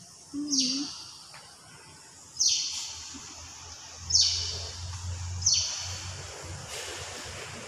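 A bird chirping five times, short high-pitched chirps that each start sharply and fade quickly, spaced about one and a half seconds apart.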